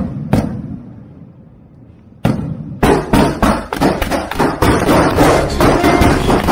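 Fireworks going off: two sharp bangs near the start, then from about two seconds in a fast, dense barrage of bangs.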